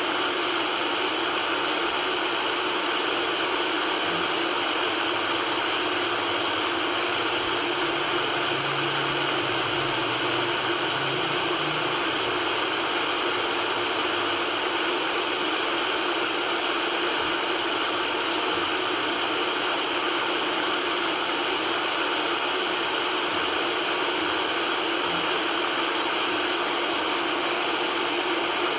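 Steady white noise for calming a baby: an even hiss with no change in level, weak in the bass.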